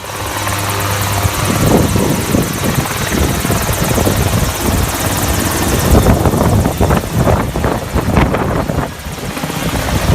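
Helicopter rotor and engine noise, loud and continuous with irregular thumping, starting abruptly.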